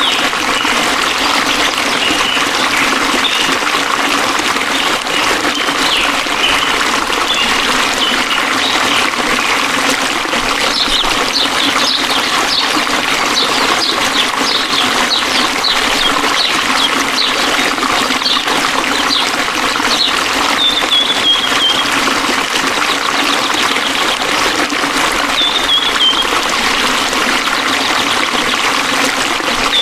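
A forest stream flowing steadily, with small birds chirping throughout and a short falling call a few times in the second half.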